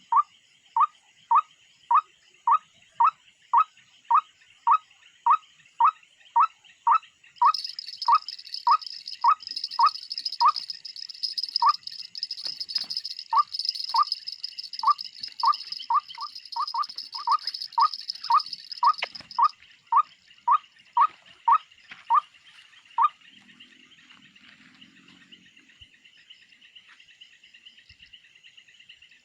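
An animal's loud short call, repeated about twice a second over a steady insect chorus; the calls stop a few seconds before the end. From about 7 seconds in, a louder, higher insect buzz joins for about 12 seconds.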